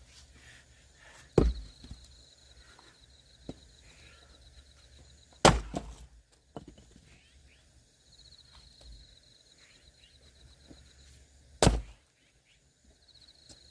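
Axe splitting firewood: three sharp chops into wood, several seconds apart, the last near the end.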